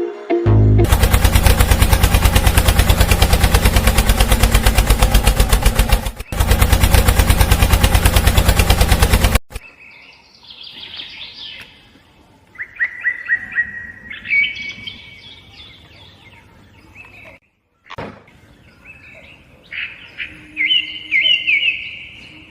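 Loud rapid mechanical clatter, many even pulses a second, for about nine seconds with a brief break in the middle, then it stops. Small birds chirp in short bursts after it.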